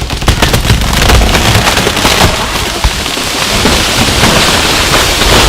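A felled tree coming down: a long run of wood and branches cracking and snapping, with heavy low thuds and rumbling as it crashes through the canopy to the ground.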